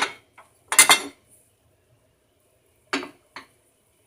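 A spoon knocking against cookware in short clinking strokes, probably while salt and spices go into the soup pot. There are two loud knocks in the first second and two fainter ones about three seconds in.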